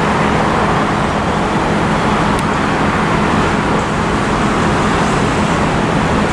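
Jet airliner engines running, a loud steady rushing noise with a low hum underneath.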